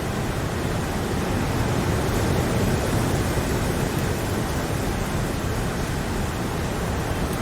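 Steady rainfall: an even hiss with no separate drops standing out.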